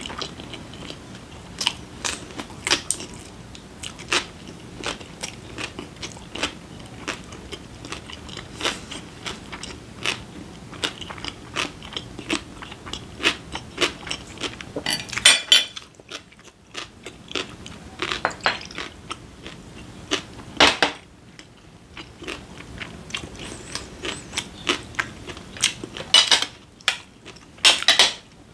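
A person chewing a mouthful of food close to a microphone: many quick mouth clicks, with a few louder clacks near the end.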